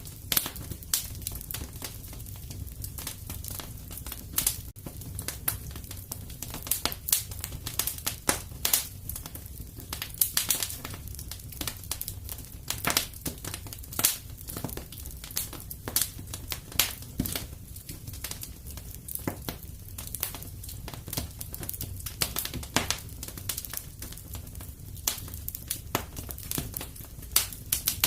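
Fire crackling in a fireplace: irregular pops and snaps over a low, steady rumble.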